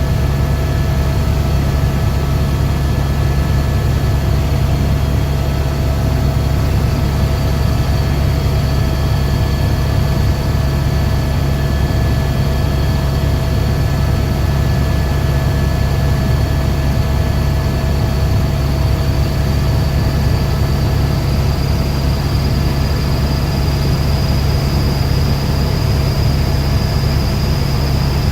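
Helicopter engine and rotor noise: a loud, steady drone with a high whine that slowly rises in pitch over the second half.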